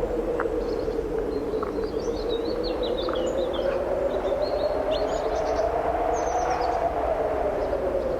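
Strong wind moaning steadily, its pitch slowly rising and falling, with small birds chirping and twittering over it.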